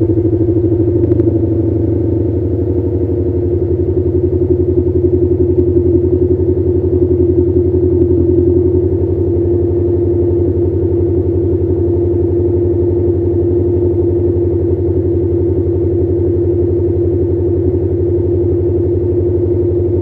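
Subaru Levorg VN5's turbocharged 1.8-litre boxer flat-four idling through an STI performance exhaust muffler in the first seconds after a cold start, at a raised cold-start idle. The exhaust note is steady and even, settling slightly about a second in.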